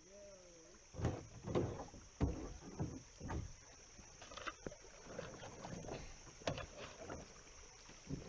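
Kayak paddle strokes dipping and splashing in the water, one irregular swish after another.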